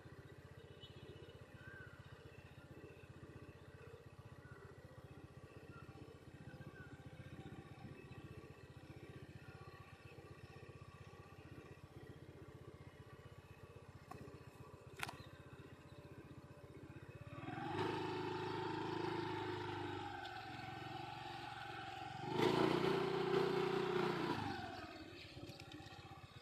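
Low steady background hum with two louder spells, each a steady engine-like note lasting two to three seconds, about 17 and 22 seconds in, typical of motor vehicles passing.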